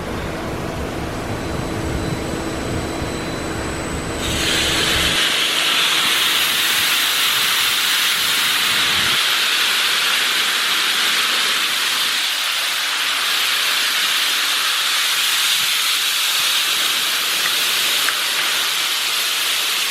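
PDQ LaserWash 4000 touchless car wash during its wax stage: a low hum with a steady tone, then about four seconds in a loud, steady hiss of spray from the overhead arm starts and keeps on, the low hum fading out.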